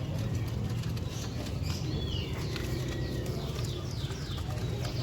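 Caged birds chirping, with a run of quick, high, falling chirps from about two seconds in, over a steady low rumble of background noise.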